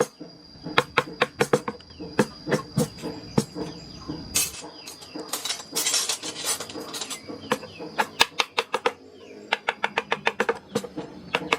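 Hand wood carving: a mallet striking a carving chisel into wood in quick runs of sharp knocks, several a second, with a stretch of chisel scraping about halfway through.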